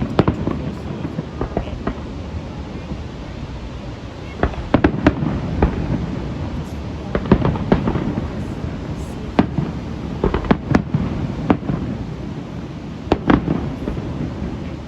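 Aerial fireworks display exploding: sharp bangs in quick clusters every couple of seconds over a continuous low din of the show.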